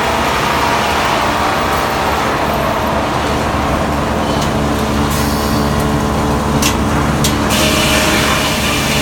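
Frick sawmill machinery running steadily, a loud mechanical din with a steady hum, and two sharp clacks about two thirds of the way through.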